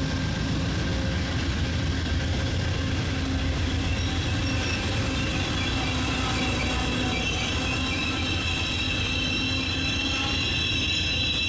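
A train rolling slowly past with a steady low rumble. About halfway in, a high-pitched squeal of the wheels against the rails starts and holds to the end.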